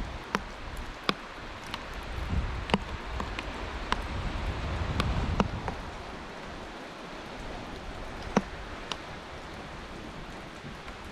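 Outdoor ambience on a snowy beach: a steady hiss with scattered sharp ticks, and a low rumble that swells for a few seconds near the start and then eases.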